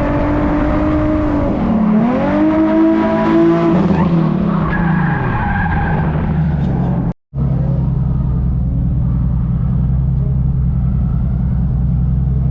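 Car engine revving hard through drift runs, its pitch rising and falling several times, with tyre noise underneath. After a brief break about seven seconds in, an engine idles steadily.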